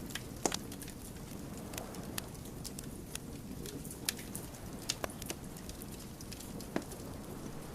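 Burning wood crackling and popping: irregular sharp snaps, the loudest about half a second in, with a few more strong pops later, over a steady low rush of the flames.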